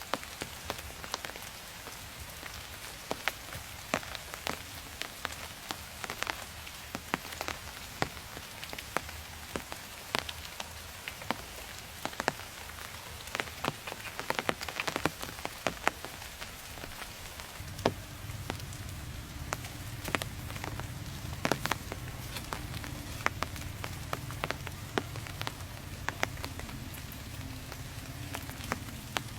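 Rain falling, heard as many irregular sharp drops and ticks over a soft hiss. A low steady hum joins about two-thirds of the way through.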